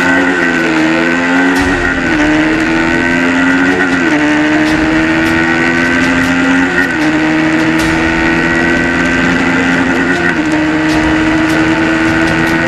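KTM motorcycle engine accelerating hard through the gears. Its pitch climbs steadily, then drops sharply at each of about four upshifts, and each climb lasts longer than the one before.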